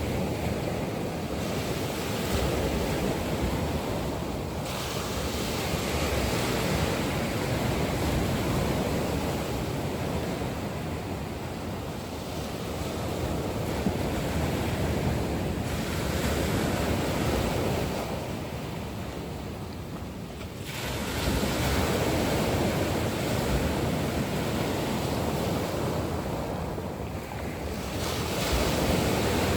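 Ocean waves breaking and washing onto a shore, the surf swelling and easing in surges every several seconds.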